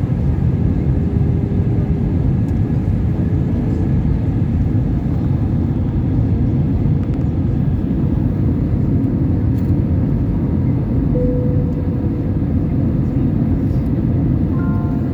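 Steady airliner cabin noise heard from inside the passenger cabin: the low, even rush of engines and airflow during the approach before landing.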